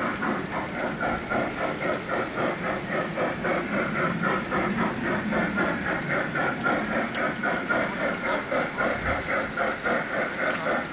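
G-scale model train running on the garden layout, with a steady rhythmic beat of about three pulses a second.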